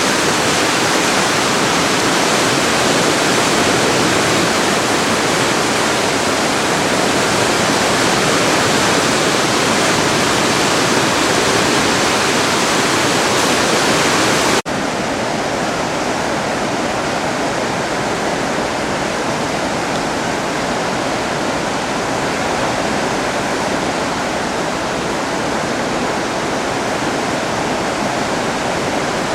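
Swollen Driva river in a 50-year flood: a steady, loud rush of fast floodwater. About halfway through it breaks off for an instant and carries on a little softer and duller.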